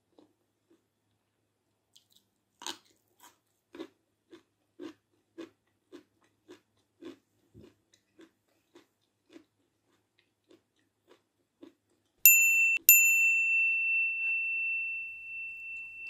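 Close-up chewing of a raw green pepper: a crisp crunch of a bite about three seconds in, then steady, wet chewing about twice a second. Near the end, two strikes of a high, ringing chime, half a second apart, ring on loudly and slowly fade.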